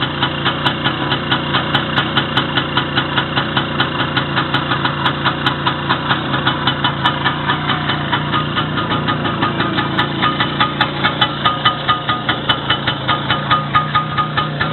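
Engine idling steadily with an even beat of about five pulses a second, running after a rebuild with a new connecting-rod small-end bushing and a new piston group.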